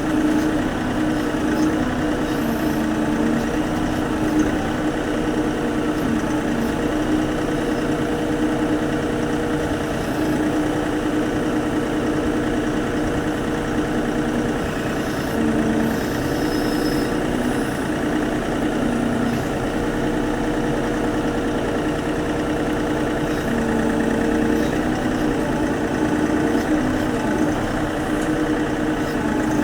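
Tractor engine running steadily, its pitch shifting slightly now and then.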